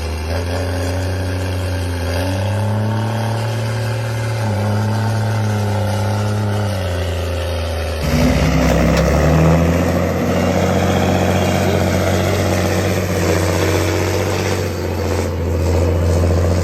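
Large Fendt tractor's diesel engine running hard, its pitch rising and falling. About halfway through, the sound cuts to a louder, steadier engine note.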